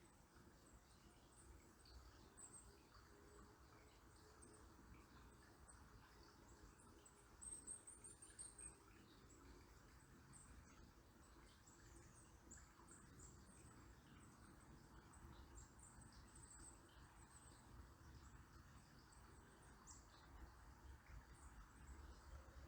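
Faint, steady babble of a river, with small birds giving scattered high, thin chirps. A quick run of chirps about a third of the way in is the loudest moment.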